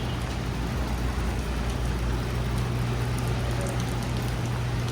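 Steady rain on a city street with road traffic, over a low steady hum.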